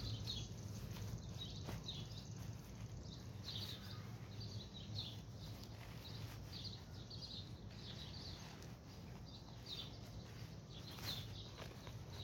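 Faint bird chirps repeating about once or twice a second over a steady low hum, with a little rustling of a tent's stuff sack near the end.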